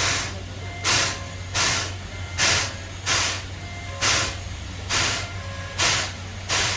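SL Taiju steam locomotive chuffing at a slow, steady pace, about one exhaust beat every 0.8 seconds, over a low steady hum.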